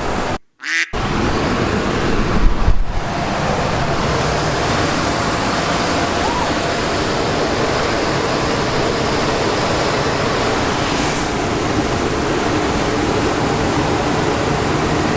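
Steady, loud rushing noise like a large blower or fan, with no clear engine note, cut by a brief dropout just under a second in.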